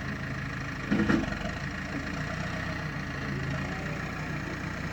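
Diesel engine idling steadily, with one short loud clunk about a second in.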